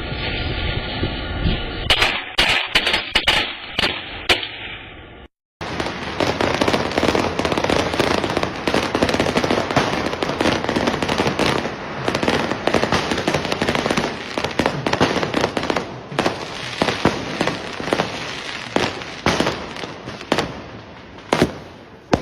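Fireworks and firecrackers going off. A few sharp bangs come in the first few seconds. After a short break there is a long, dense run of rapid crackling pops, with louder cracks scattered through it.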